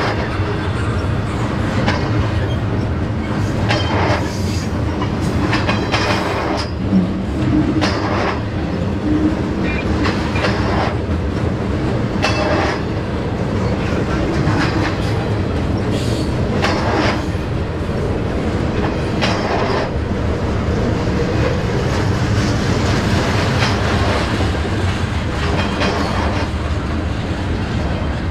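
BNSF freight train cars rolling past at close range: a steady low rumble of wheels on rail, with sharp wheel clicks over rail joints every second or two.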